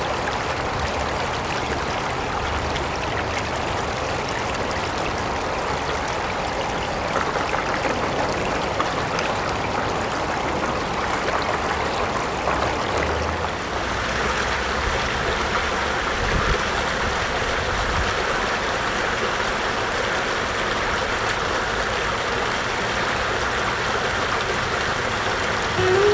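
Small creek babbling steadily; the rush of water grows a little brighter about halfway through.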